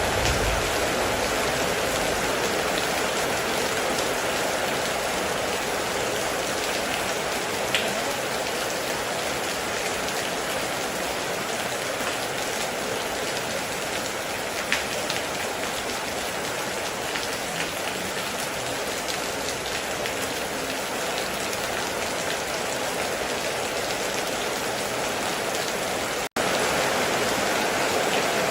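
Heavy rain falling steadily on a metal roof, an even wash of drumming with a few isolated sharper drop hits. The sound cuts out for an instant near the end, then resumes at the same level.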